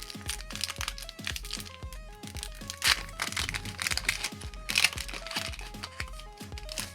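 Foil booster-pack wrapper crinkling and crackling as it is torn open, with two louder crackles about three and five seconds in. Background music with a steady beat plays throughout.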